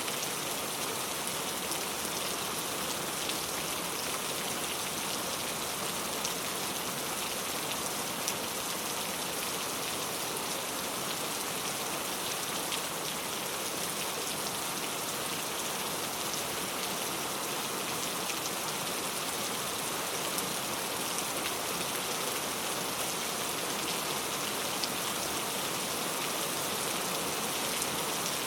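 Steady heavy rainfall: an even hiss of rain with fine scattered drop ticks.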